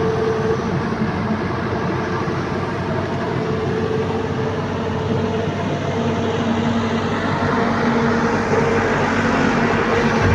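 Heavy diesel machinery running steadily, with a droning hum that comes and goes over the engine noise and a gradual rise in loudness toward the end.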